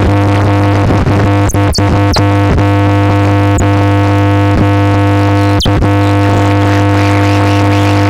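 Dark ambient electronic drone music: a loud, steady low hum under a stack of sustained tones, with a few brief high sweeps falling in pitch across it.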